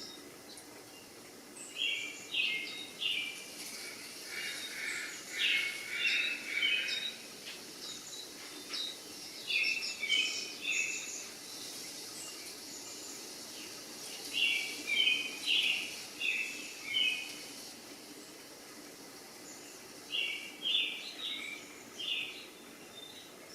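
A small bird singing in short bursts of quick, chirpy notes every few seconds, over a faint steady background hum.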